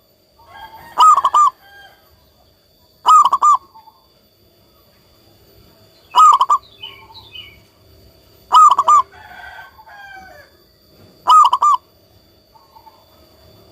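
Zebra dove (perkutut) singing: five short cooing phrases, each a few quick notes, about every two to three seconds. Fainter chirps of other small birds come between the phrases.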